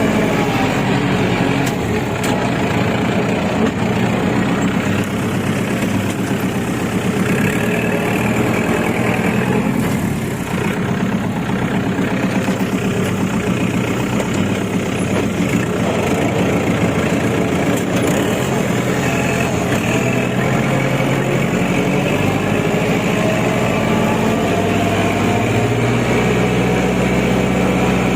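Kubota L5018 tractor's diesel engine running steadily, its pitch shifting a little about two-thirds of the way through.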